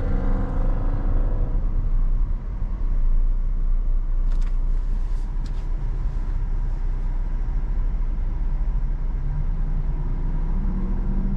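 Steady low rumble of a car's engine and running gear heard inside the cabin, with a few short faint clicks about four to five seconds in.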